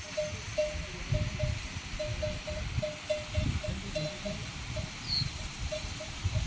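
A livestock bell on a goat or sheep clinking at one pitch, three to four strokes a second and slightly uneven, as the animal moves. Under it, gusty wind rumbles on the microphone.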